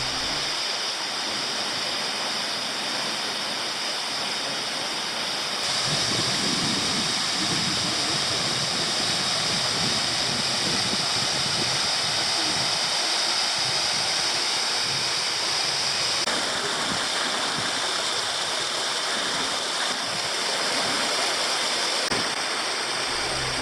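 Waterfall: a continuous rush of falling water, its tone shifting abruptly a few times.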